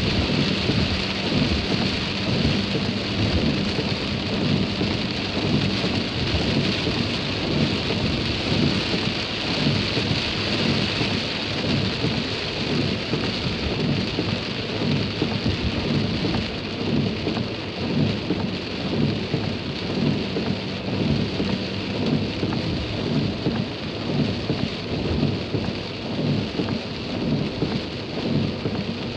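Heavy rain falling steadily, many drops hitting at once in a dense, unbroken wash of sound.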